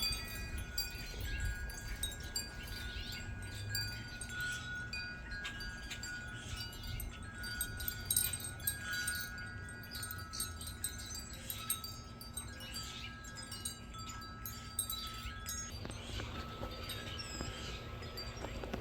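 Wind chimes ringing, several metal tones struck over and over and left to ring, overlapping, over a low rumble of wind on the microphone.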